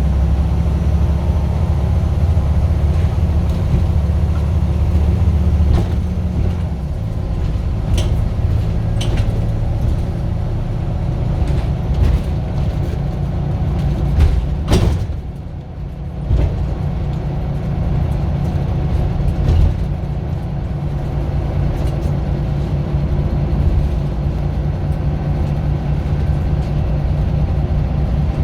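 Scania bus's diesel engine running with a steady low drone, heavier for the first few seconds. A few sharp rattles and clicks are heard, the loudest a clunk about halfway through, followed by a brief lull.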